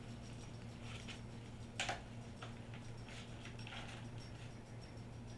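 Light, scattered taps and clicks of a small toy tractor handled on a tray, with one louder knock about two seconds in.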